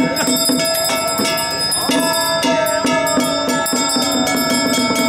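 Temple festival music: many bells ringing over rhythmic percussion, with frequent sharp metallic strikes and long ringing tones.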